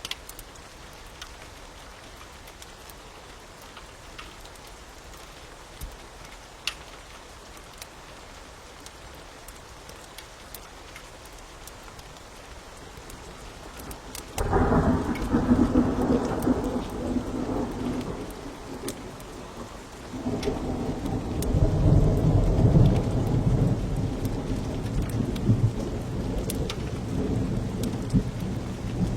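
Steady rain with sparse sharp crackles of a wood fire; about halfway through, thunder breaks in with a sudden loud low rumble that fades, then a second long rumble builds a few seconds later and carries on.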